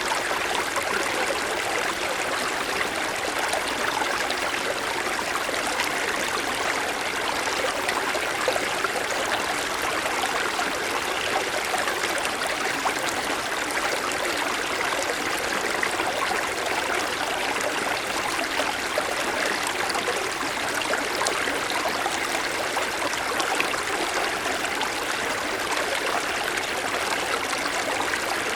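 Mountain stream flowing over rocks: a steady rush of water with fine trickling and splashing.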